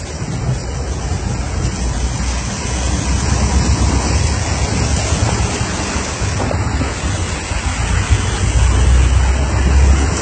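Heavy downpour: a dense, steady hiss of rain, with a strong low rumble of wind buffeting the microphone.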